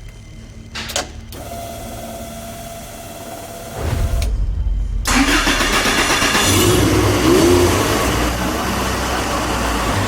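Toyota AE86 Trueno engine being started: a couple of clicks and a faint steady whine, then the engine cranks and catches about four seconds in. It runs loudly from about five seconds on.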